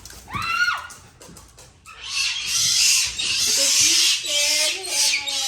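A short high yelp that drops in pitch. Then a pet monkey, frightened by the dogs, screeches harshly for about three seconds, breaking into wavering whining squeals near the end.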